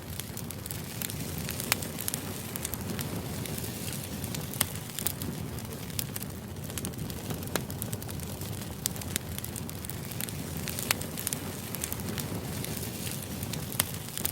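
Crackling fire used as background white noise: a steady low rush with irregular sharp crackles and pops.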